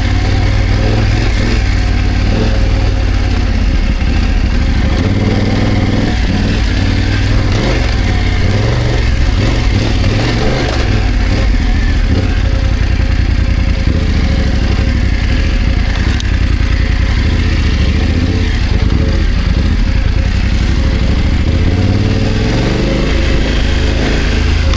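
BMW F900GS parallel-twin engine running at low revs while riding off-road, with the revs rising near the end.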